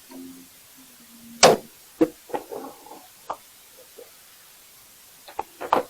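A string of knocks and clunks as gear is shifted and tugged at in the back of a 4WD canopy while a stuck item is worked loose. The loudest knock comes about a second and a half in, several lighter ones follow, and there is a quick cluster near the end.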